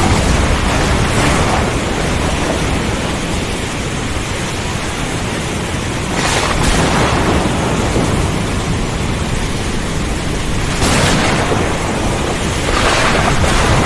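Thunderstorm: heavy rain and wind make a steady rush, and thunder swells up several times.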